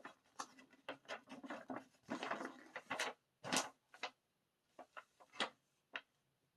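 A folded paper poster being handled and unfolded: irregular paper rustling and crinkling, busiest about two to three seconds in, with a couple of sharper crackles soon after and a few light taps near the end.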